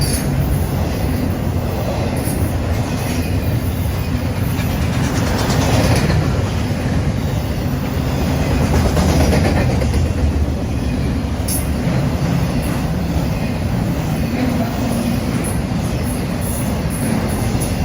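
Norfolk Southern freight train rolling past, a steady loud rumble of steel wheels on the rails with faint clicks.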